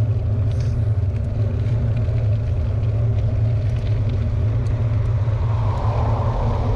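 Steady low rumble of wind buffeting an action camera's microphone, with a few faint ticks over it.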